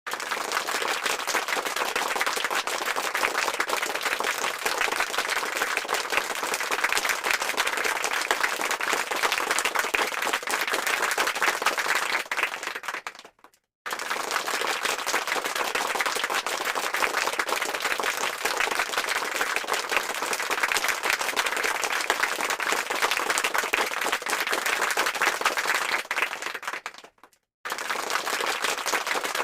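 Applause sound effect: a crowd clapping densely and steadily. It fades out about 13 seconds in and again near the end, each time dropping to a moment of silence before the clapping starts again at full level.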